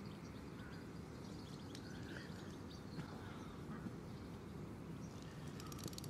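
Faint bird chirps over a steady low outdoor rumble. About five and a half seconds in, a rapid run of fine high-pitched clicking begins.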